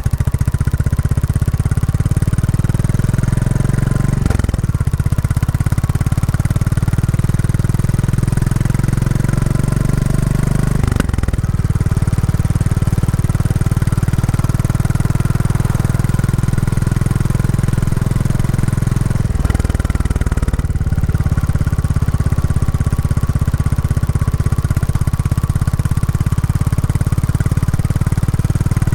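Royal Enfield Classic 350's single-cylinder engine running through its stock exhaust while riding, during running-in. The engine note shifts a few times, with short breaks about four and eleven seconds in.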